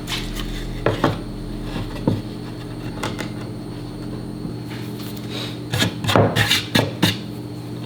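Wooden knocks and clatter as pieces of wood are handled and set down on a workbench: single knocks about 1, 2 and 3 seconds in, then a quick run of knocks near the end. Under them runs a steady machine hum.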